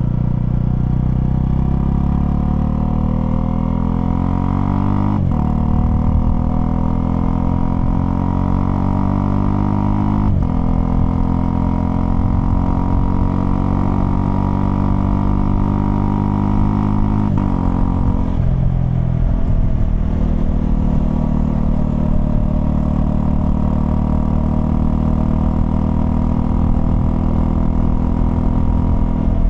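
Honda CL250's single-cylinder engine accelerating through the gears: the pitch rises and drops suddenly at each upshift, three times, about 5, 10 and 17 seconds in. It then settles to a steady cruise.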